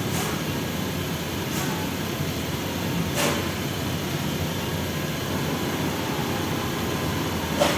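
Car engine idling steadily, with a few short clicks, the clearest about three seconds in and near the end.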